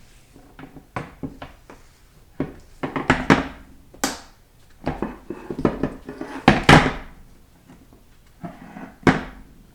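Irregular knocks, clunks and short scrapes of metal transmission parts and hand tools being handled and set down on a workbench during a 4L60E teardown, with the loudest clatter about three seconds in and again near seven seconds.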